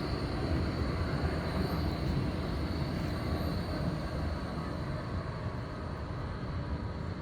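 Škoda 52T ForCity tram running on street track: a steady rolling rumble, easing off a little in the second half.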